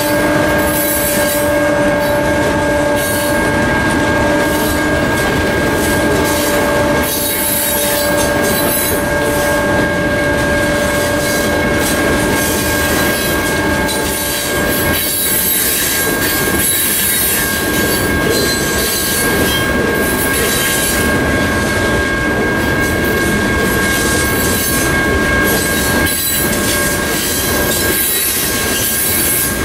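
Loaded coal hopper cars rolling past, steel wheels rumbling and knocking over the rails, with a steady high squeal from the wheels over the noise.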